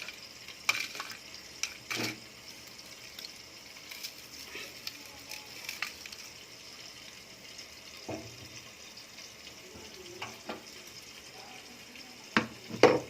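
Faint, steady sizzle of food frying in a pan, with scattered light clicks and knocks and a couple of louder knocks near the end.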